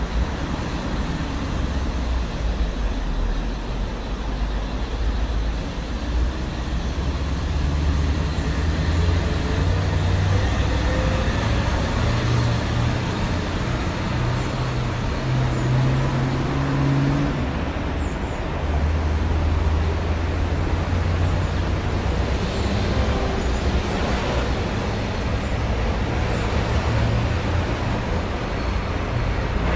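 City road traffic: a steady rumble of motor vehicles, with an engine's low drone that shifts up and down in pitch through the middle.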